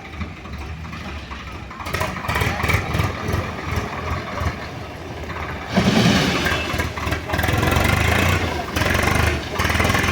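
JCB 3DX backhoe loader's diesel engine running under working load. It gets louder in surges, notably about six seconds in and again toward the end, as the machine digs and lifts mud.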